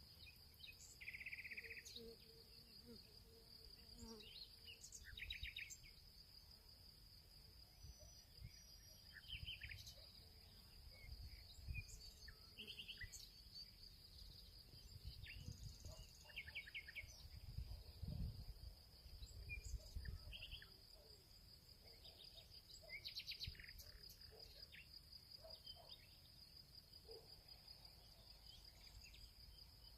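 Faint field ambience: a steady, high insect trill like crickets, with scattered short bird chirps and a low rumble that swells around the middle.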